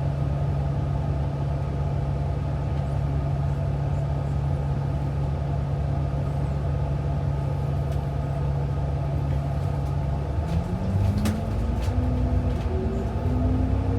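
City bus engine heard from inside the cabin, running steadily, then revving up about ten seconds in as the bus pulls away, its pitch rising with a brief dip like a gear change. A few sharp clicks sound near the end.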